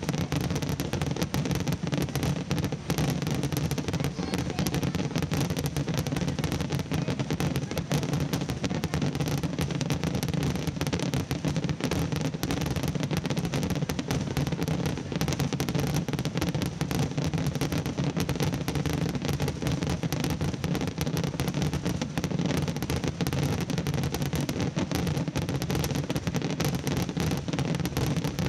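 Fireworks finale barrage, with a great many shells and comets bursting at once. The reports run together into one steady, dense rumbling crackle with no gaps.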